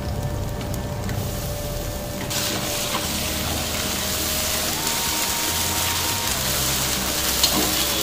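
Onions and ginger-garlic paste sizzling in oil in a steel kadai as they are stirred, the hiss getting brighter about two seconds in. A soft background music tone that steps up and down in pitch runs underneath.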